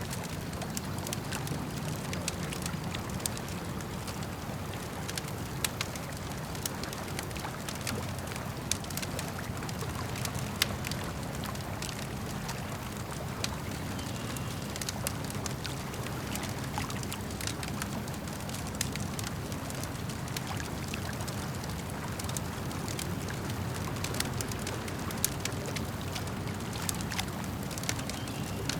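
Campfire crackling with irregular sharp pops and snaps over a steady low rumble of lake water lapping.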